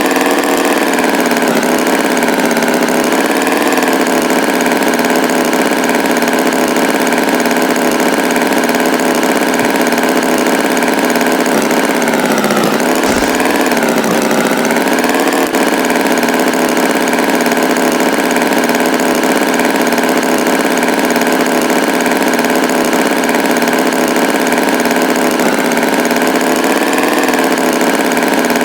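Tractor engine running steadily, with a brief dip in pitch about halfway through.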